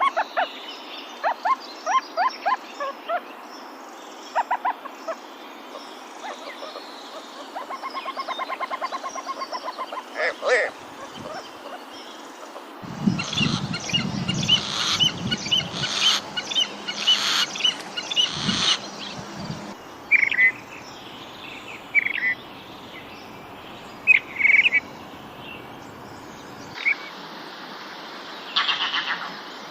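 Several wild birds calling and singing: strings of short chirps, a fast trill, and a busier stretch of mixed calls in the middle, then one short call repeated about every two seconds.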